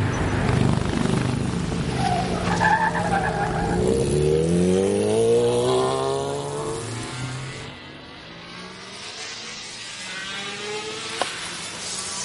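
A car engine revving hard as the car accelerates away, its pitch climbing steeply for about two seconds before the sound fades as the car moves off. A brief high squeal comes about two seconds in, and a single click near the end.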